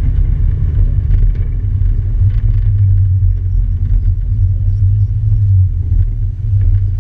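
Honda Civic hatchback with a swapped-in Acura Integra GS-R 1.8-litre DOHC VTEC engine, heard from inside the cabin while cruising: a steady, deep engine and road rumble with no revving up or down.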